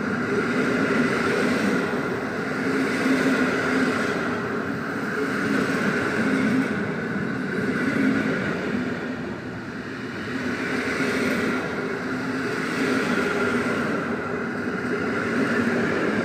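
Intercity passenger train hauled by an EU160 (Newag Griffin) electric locomotive arriving along the platform: a steady rumble of wheels on rail with a constant hum, swelling and easing slightly.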